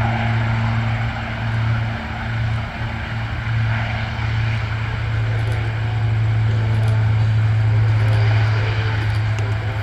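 Airbus A400M Atlas's turboprop engines, driving eight-bladed propellers, spooling up to power for takeoff: a loud, steady low propeller drone that grows louder in the second half.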